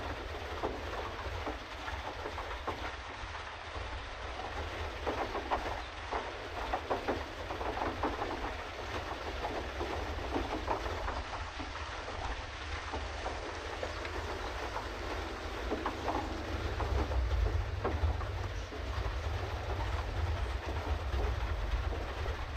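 Pedal boat under way: its pedal drive and paddle wheel churn with an uneven clatter over a steady low rumble that grows near the end.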